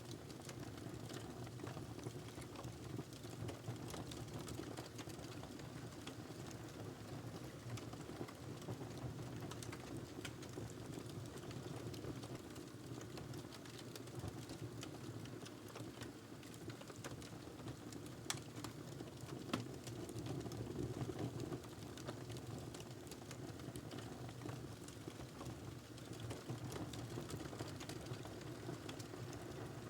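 Wood fire crackling, with many small scattered pops and a few sharper ones over a steady low rumble.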